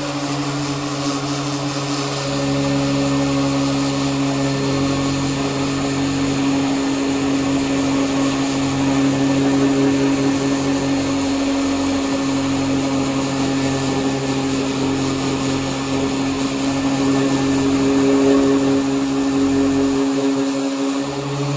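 Power sander running steadily against the car's steel body panel, a loud even motor hum over the hiss of the abrasive, its pitch shifting slightly near the end.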